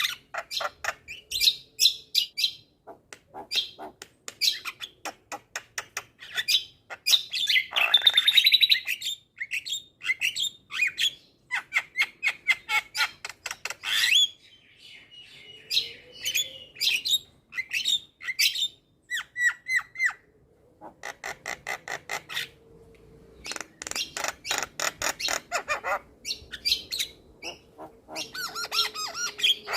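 Javan myna (jalak kebo) singing a fast, varied stream of clicks, chirps and harsh squawks, with one loud raspy squawk about eight seconds in.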